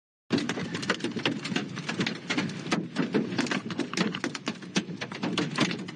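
Wind-driven rain beating on a vehicle in a severe storm: a dense, irregular patter of hits, starting abruptly just after a brief gap.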